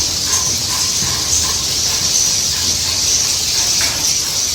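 A dense, steady high chatter of many swiftlets twittering and clicking inside the bird house, over a low steady hum.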